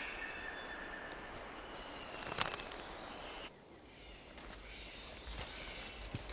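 Tropical forest ambience with a steady hiss of insects and short high-pitched calls that repeat every second or so. There is a sharp click about two and a half seconds in, and the background changes abruptly just past the halfway point.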